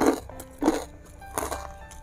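Someone biting and chewing crunchy food, a crunch roughly every 0.7 s, over background music.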